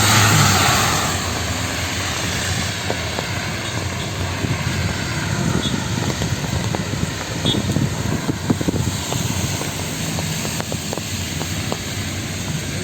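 Traffic on a rain-wet city street: a vehicle passing with a loud hiss of tyres on wet road at the start, fading over the first second or so, then a steady wash of rain and traffic noise with engine hum and scattered small taps.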